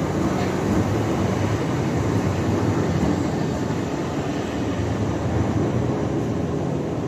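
Class 377 Electrostar electric multiple unit running into a station platform: a steady rumble of wheels and traction equipment with a low hum, easing slightly as the train slows.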